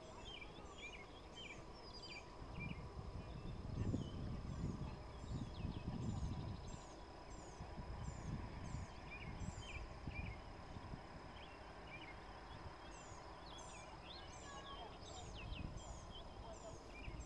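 Songbirds chirping, with short high falling notes repeated several times a second over a chorus of other chirps. A low rumble rises and falls through the middle.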